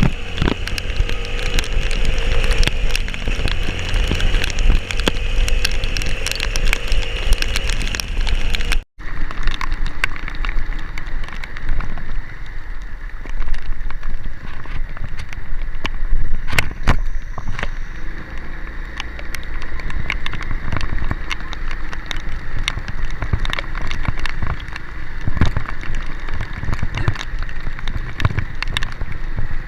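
A vehicle engine running steadily, with heavy rain pattering and many sharp clicks and knocks; the sound drops out for an instant about nine seconds in, then the rain and knocking carry on over a fainter engine.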